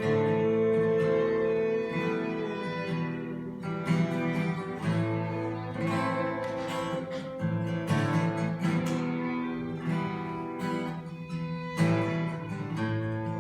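Instrumental break of a song: acoustic guitar strummed and plucked, with sustained notes held underneath.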